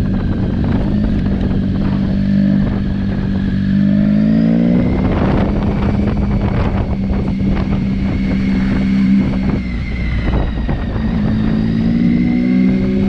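Triumph Tiger 800 XCx motorcycle engine running under way with wind rush. The revs climb and then drop about four to five seconds in, and climb again near the end.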